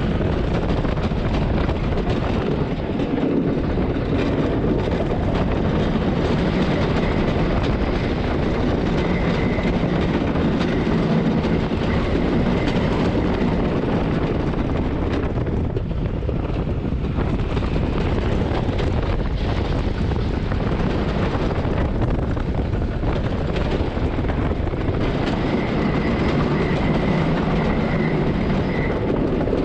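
Tonnerre de Zeus wooden roller coaster train running along its wooden track, heard from on board: a loud, steady rattle and rumble with no breaks, and a faint high whine that comes and goes twice.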